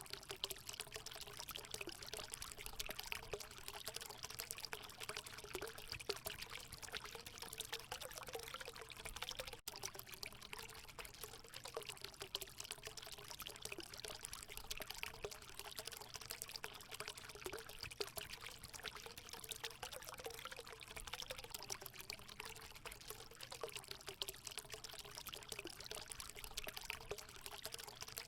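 Water running and pouring into a hot spring pool: a steady splashing pour with a wavering gurgle underneath, broken by a momentary dropout about ten seconds in.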